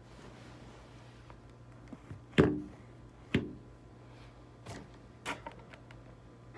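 A few separate knocks and thumps over a steady low hum: a sharp loud one about two and a half seconds in, another a second later, then two fainter ones.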